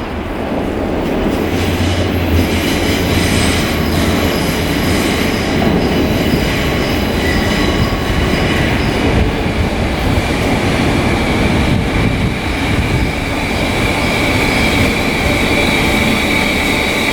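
Merseyrail electric multiple unit running close by through the station, its wheel and rail noise swelling over the first second or two and then holding loud. A high steady whine comes in about halfway through.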